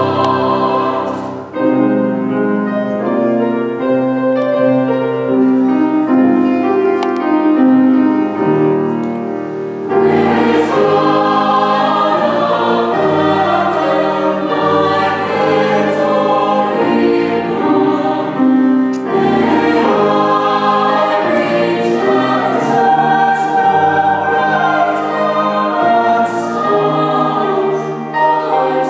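A high-school chamber choir singing in sustained, held chords, phrase after phrase, with a short breath about a second and a half in and fuller entries about ten and nineteen seconds in.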